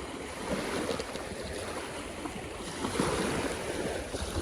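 Sea water and wind on open water, with wind rumbling on the microphone in gusts that swell about half a second in and again about three seconds in.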